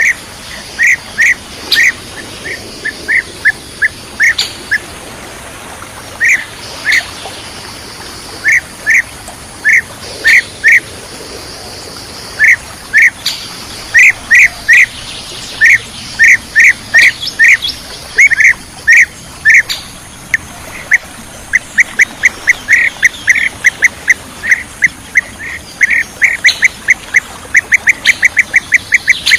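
Bee-eater calls played for bird luring: short, loud, clear notes repeated in irregular runs, quickening into a fast, rapid series near the end.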